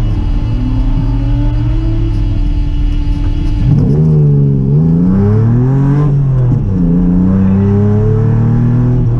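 Rally car engine heard from inside the cabin, accelerating hard away from the stage start. The engine note climbs steadily at first, then rises and drops several times in the second half as the driver changes gear and lifts into the bends.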